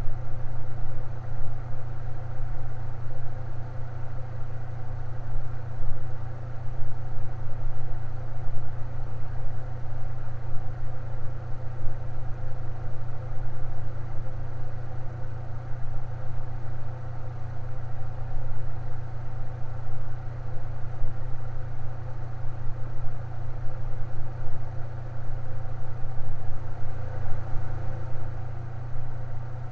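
Electric fan running steadily: a constant low motor hum with a soft, even rush of air above it.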